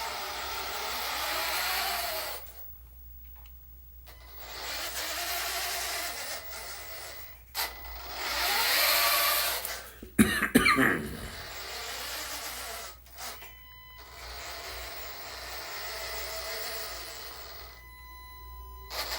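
A radio-controlled hydraulic construction model's pump runs in five separate bursts of a few seconds each, its whine rising and falling as the load changes. About ten seconds in there is a short, loud rattle.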